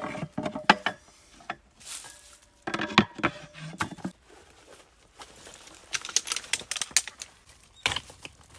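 Irregular clusters of sharp clicks and knocks from hard objects being handled, with the busiest bursts near the start, around three seconds in, and again from about six seconds in.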